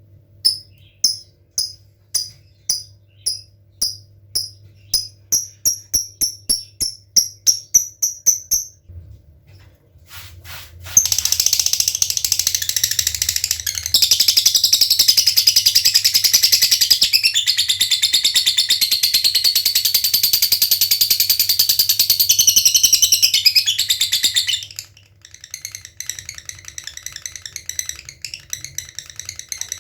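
Lovebird calling: about twenty sharp, high chirps that come faster and faster (the 'ngetik' ticking), then after a short pause a loud, continuous rapid chattering trill held for about thirteen seconds (the long 'ngekek'), breaking into shorter, choppier chatter near the end.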